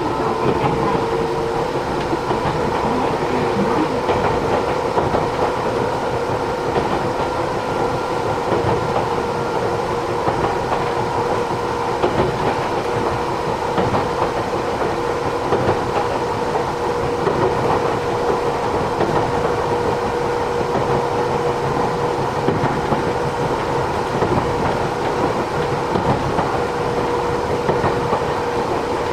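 Interior running sound of a Matsumoto Electric Railway 3000 series electric train cruising at steady speed: continuous wheel and rail noise with a steady hum and occasional clatter over rail joints.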